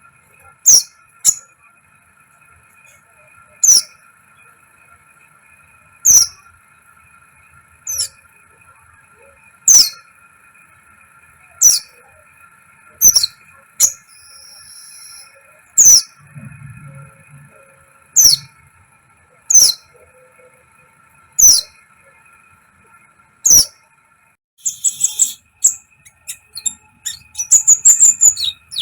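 Sunbird ('kolibri ninja') calling in sharp, high, falling single chirps about every two seconds, with one short high whistle midway, then breaking into a fast burst of twittering near the end.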